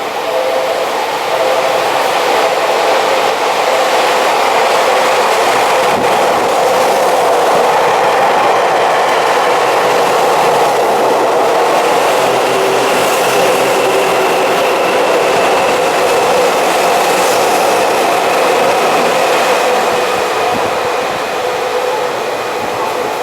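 Tokyu electric commuter train running through the station: a loud, steady rumble of wheels on rail that lasts about twenty seconds, with a thin high whine joining in about halfway through.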